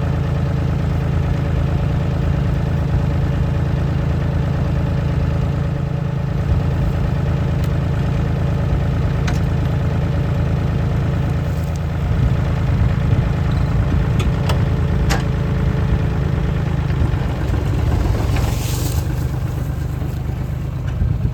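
Engine idling steadily at a low, even pitch, with a few light clicks and a short hiss near the end.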